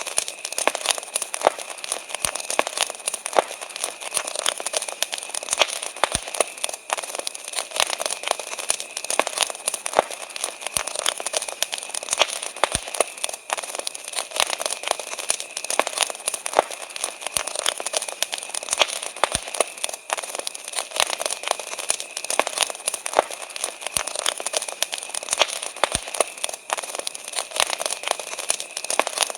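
Wood fire crackling steadily, with dense irregular pops and snaps, and a steady high-pitched tone underneath.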